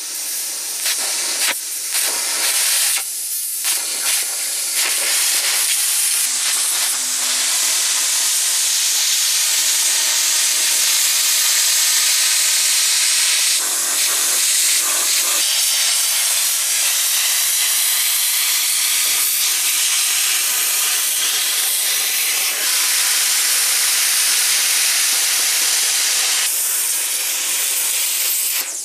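Air plasma cutter torch cutting thin dishwasher sheet metal: a loud hiss that breaks off and restarts a few times in the first seconds, then runs steady until it cuts off near the end. The torch is running on only about 30 psi of air, which the owner says is too little pressure.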